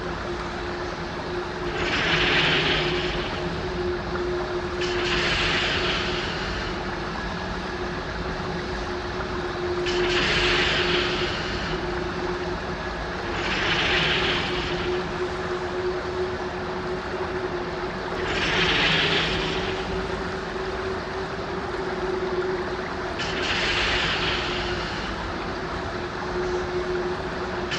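Film sound-design ambience for an ancient shrine: a steady low drone with a constant humming tone, overlaid by hissing, breathy whooshes that swell and fade every few seconds.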